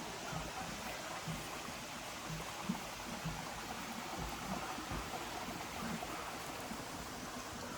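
Steady rushing noise of flowing water, with a few faint low knocks.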